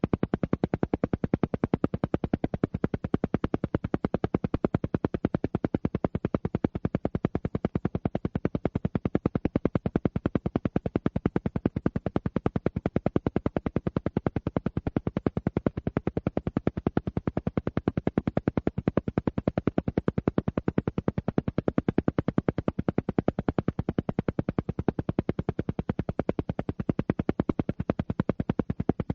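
Alpha-wave brainwave-entrainment track: a steady stream of rapid, evenly spaced pulses, many a second, like an isochronic beat at alpha rate.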